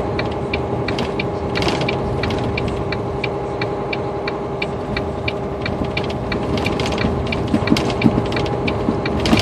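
Inside a semi truck's cab on a rough, snow-packed road: the steady drone of the engine and road, with an even, fast clicking.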